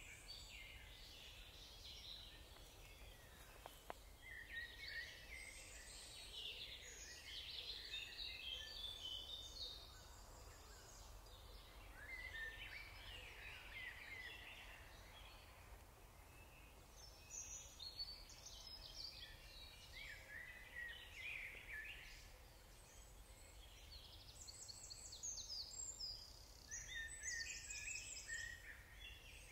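Faint songbirds singing in spells of quick chirping phrases, over a steady low background rumble.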